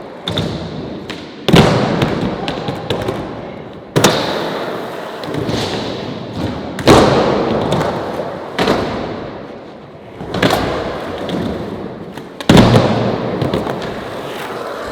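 Skateboard rolling, with about six sharp board impacts a couple of seconds apart: tail pops and the board slapping down on landings and bails during kickflip attempts. Each impact is followed by the rush of the wheels.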